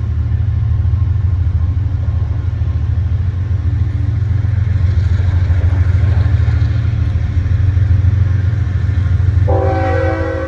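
Steady, loud low rumble of a train's diesel engine running, with a short horn blast of several tones at once, about a second long, near the end.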